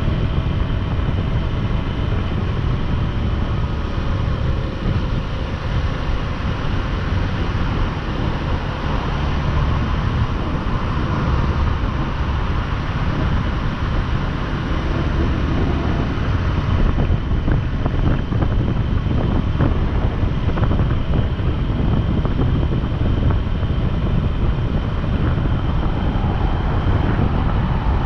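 Motorcycle riding at highway speed: steady wind buffeting the microphone over the rumble of the engine and road noise.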